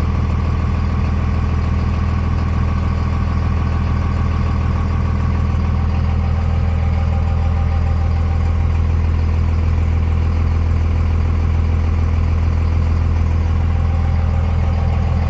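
1999 Dodge Ram 3500's 5.9-litre Cummins turbo-diesel inline-six idling steadily, shortly after a cold start.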